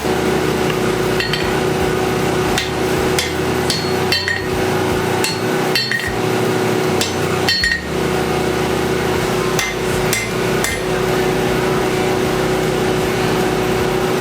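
Hammer striking steel on an anvil during sword forging: about a dozen irregular blows with a bright metallic ring, which stop about three-quarters of the way through. A steady hum runs underneath throughout.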